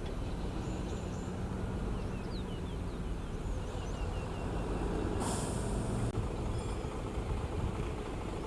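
Heavy road-building machinery running, a steady low diesel engine drone, with a short sharp hiss about five seconds in.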